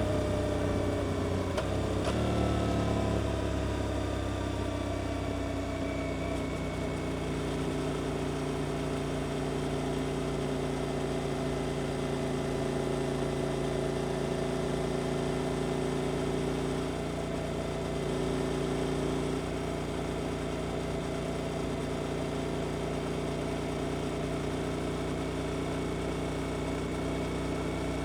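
Suzuki GSX-8S 776 cc parallel-twin engine, through an Arrows exhaust. Its note falls over the first few seconds, then holds at a steady engine speed.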